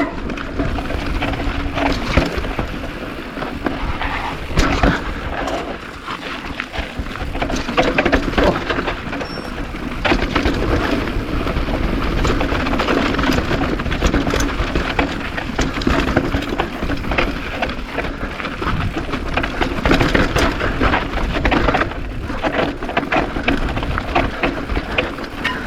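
Kona Operator downhill mountain bike descending a dry, rocky trail at speed: tires crunching and skidding over dirt and rock, with a constant rattle and clatter of the bike over the bumps.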